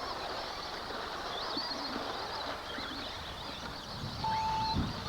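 Radio-controlled off-road racing trucks running on the track: a steady wash of noise with high-pitched motor whines rising and falling. A short electronic beep comes about four seconds in.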